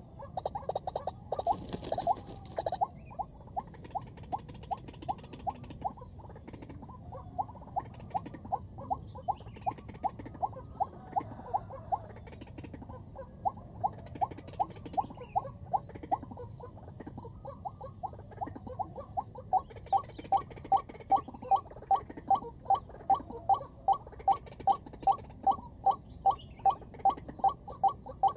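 White-breasted waterhen calls: a monotonous run of short notes repeated over and over. They are uneven at first, then become louder and settle into a steady rhythm of about two a second. A steady high-pitched whine runs underneath.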